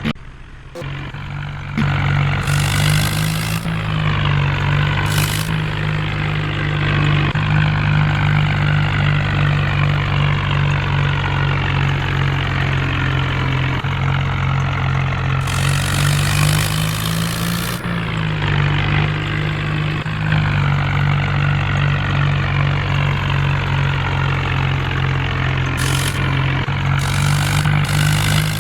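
Heavy diesel engine running steadily at a constant speed, with a few short bursts of hiss on top.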